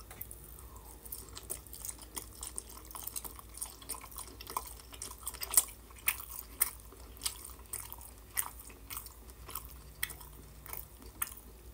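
A person chewing a chewy mouthful of roast beef close to the microphone: irregular soft mouth clicks and wet smacks, with a few sharper ones now and then.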